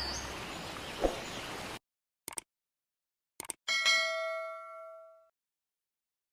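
The tail of intro music fades, then cuts off suddenly. Two short clicks follow, then a single bell-like ding that rings out and dies away over about a second and a half.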